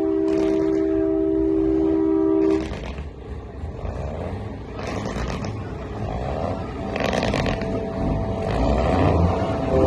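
Multi-tone truck air horn holding a steady chord, cutting off sharply after about two and a half seconds, then engine rumble, and the horn sounding again right at the end.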